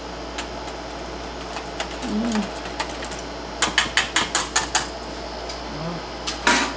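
A wire whisk clicking against the side of a bowl while stirring a thick glaze, with scattered taps and then a quick run of about six clicks a bit past halfway. A short scraping burst comes near the end, over a steady background hiss.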